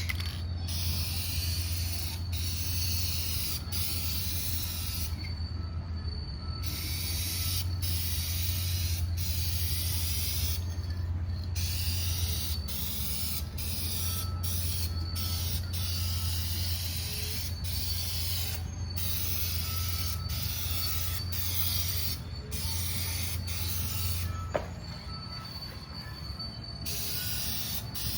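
Aerosol spray paint can hissing in long bursts with short pauses between passes. A steady low hum runs underneath and stops near the end.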